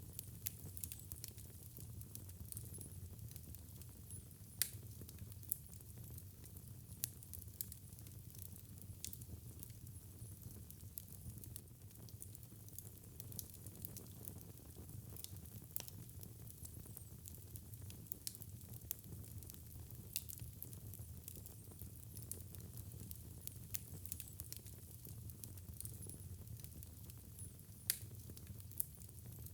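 Wood fire burning in a fireplace, a steady low rumble of flame with frequent irregular crackles and sharp pops, a few louder snaps among them.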